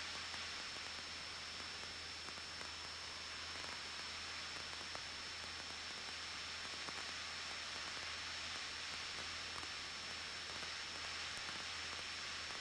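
Steady faint hiss of an aircraft intercom audio feed, with a low hum and a thin high-pitched whine held underneath it.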